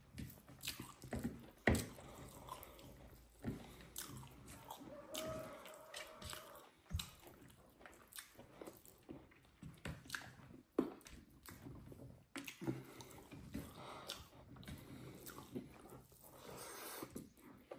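A person eating fried blood-coated pork and rice close to the microphone: irregular wet chewing, biting and mouth smacks with small clicks.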